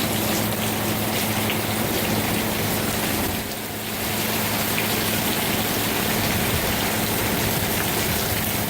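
Heavy thunderstorm rain pouring down steadily, beating on the garden and yard, with a brief lull about three and a half seconds in.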